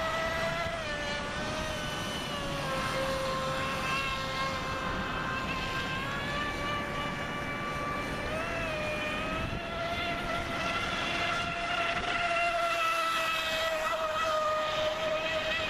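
Radio-controlled boat's brushless outrunner motor driving a Kyosho Dolphin outboard, running with a steady high whine that wavers up and down in pitch as the throttle changes, over the hiss of the hull on the water.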